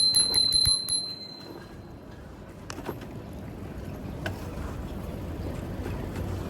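Bicycle bell rung rapidly, a quick string of strikes on one high ringing note that fades out about a second in. After it, low steady street noise with a few faint clicks.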